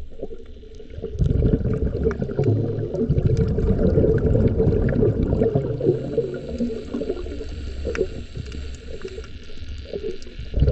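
Sea water gurgling and sloshing, with scattered faint clicks.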